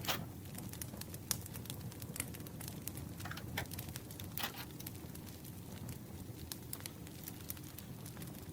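Campfire crackling steadily with frequent small pops, over a low rumble. A few brief papery rustles come near the start and around the middle.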